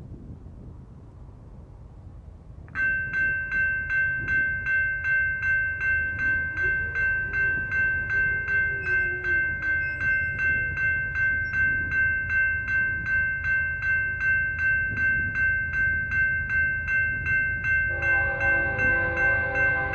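Railroad grade-crossing bell starts ringing about three seconds in, about three even strikes a second, over a low rumble. Near the end a locomotive's multi-chime air horn sounds along with it.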